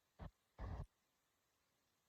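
Two short voice sounds in the first second, like clipped syllables, then near silence.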